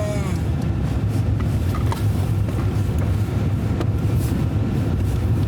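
Vehicle driving on a snowy street: a steady low engine and road rumble with no impacts.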